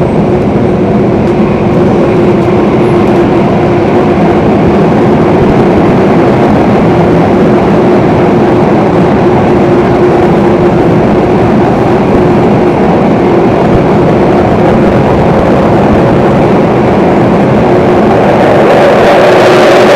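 Singapore MRT Circle Line train running underground, heard from on board: a steady loud rumble of wheels on rail with a humming motor tone. Near the end the noise grows brighter and a second, higher hum joins in.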